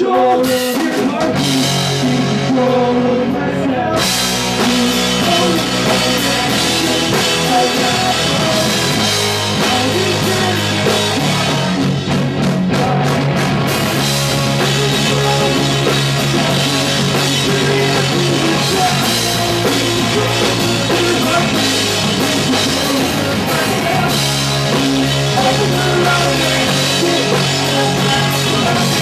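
Punk rock band playing live and loud: distorted electric guitars, bass guitar and drum kit.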